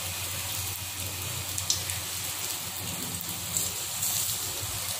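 Capsicum bajji (battered bell pepper rings) deep-frying in hot oil: a steady sizzle with a few small crackles.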